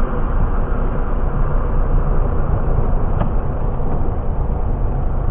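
Steady drone of engine and airflow inside a Piper Warrior's cabin, with one brief click about three seconds in.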